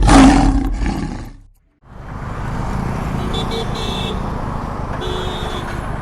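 A loud roar lasting about a second and a half that cuts off abruptly. After a short silence, a steady engine and traffic rumble takes over.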